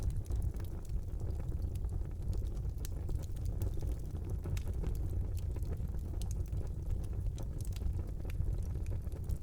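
Wood fire burning in a brick fireplace: a steady low roar of flames with frequent small crackles and pops scattered throughout.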